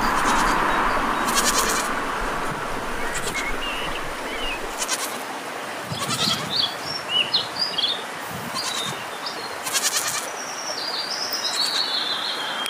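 Animal calls and short high bird-like chirps over a steady rushing background noise.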